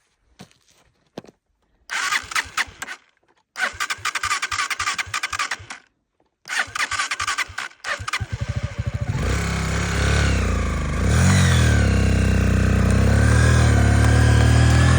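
Motorcycle engine being cranked in three bursts with short pauses, catching about eight seconds in, then revving up and down once and running steadily and loudly.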